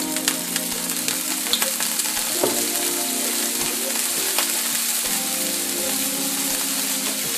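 Turkey patties frying in hot oil in a skillet: a steady sizzle with scattered crackles and pops.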